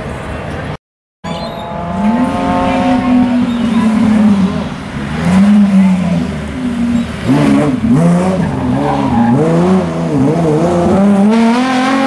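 Chrysler Valiant VH Charger rally car's engine at high revs through a 180-degree hairpin. Its pitch holds, then drops as it slows into the turn, swings quickly up and down through the turn, and climbs again as it accelerates away. The sound cuts out completely for a split second about a second in.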